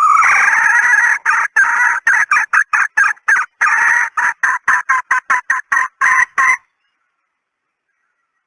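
Female red junglefowl (hen) calling: one drawn-out note that breaks into a fast series of short clucks, about three or four a second. The calling cuts off abruptly about six and a half seconds in. This is the kind of hen call played to lure wild junglefowl.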